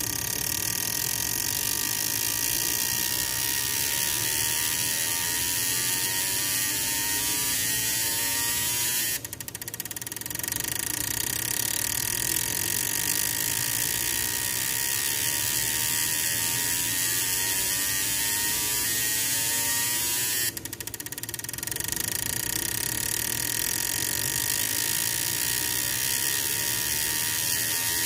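Repaired Weber multipoint fuel injectors being pulsed rapidly, a steady electric buzz with a hiss of spray. It cuts out briefly twice, about a third and three quarters of the way through.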